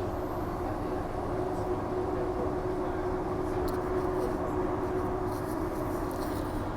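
Walkers Limited A-series electric multiple unit running at steady speed, heard from inside: a continuous rumble of wheels on track with a steady hum underneath.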